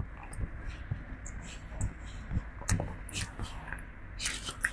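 Close, soft scratching and rustling with scattered small clicks and smacks, irregular and a little louder in the second half, from a monkey grooming a person.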